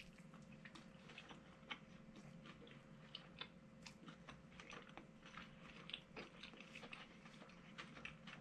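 A person chewing a mouthful of crispy fried chicken sandwich close to the microphone: quiet, irregular small clicks and crunches, several a second, over a faint steady hum.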